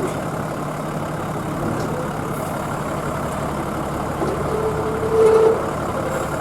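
Diesel engine of a 2000 class rail motor running steadily, heard from inside the railcar, with a steady low hum under an even rumble. A brief higher-pitched tone sounds about four and a half seconds in.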